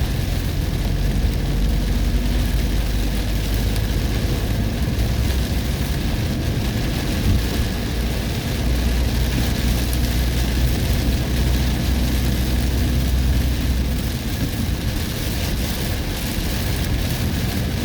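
Steady noise of a vehicle driving through a heavy rainstorm: a low road-and-engine rumble under a constant hiss of rain on the vehicle. The low rumble eases about fourteen seconds in.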